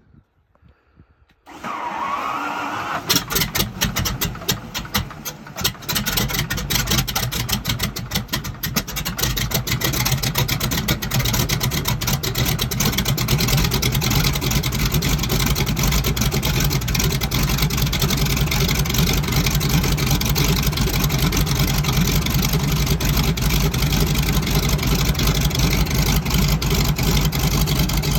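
De Havilland Beaver's nine-cylinder Pratt & Whitney R-985 radial engine starting: a rising starter whine, then uneven firing cracks as the cylinders catch one by one. It picks up about six seconds in and settles into a steady run.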